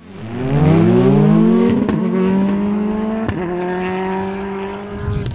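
Rally car engine revving hard, its pitch climbing quickly and then held high and steady, with two sharp cracks about two and three and a half seconds in.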